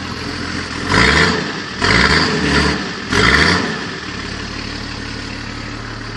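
Nissan Patrol engine running cold, revved three times in quick succession, each rev rising and falling back, then settling to a steady idle about four seconds in.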